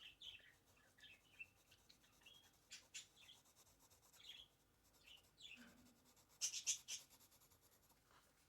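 Faint bird chirps in the background over scratchy drawing strokes, with a louder burst of rubbing strokes about six and a half seconds in.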